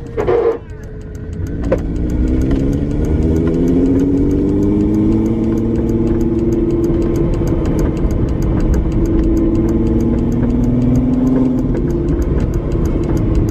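VW Jetta Mk4 VR6 engine running, its pitch climbing slowly and dropping back twice as the revs rise and fall.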